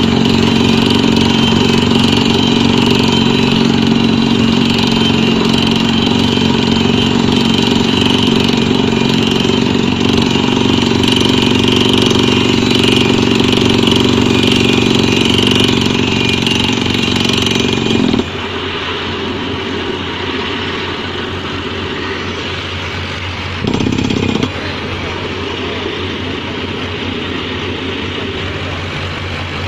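Pneumatic drilling rig machinery running with a loud, steady engine-like drone. About eighteen seconds in the louder part cuts off abruptly and a quieter running sound carries on, with a short return of the louder sound for under a second a few seconds later.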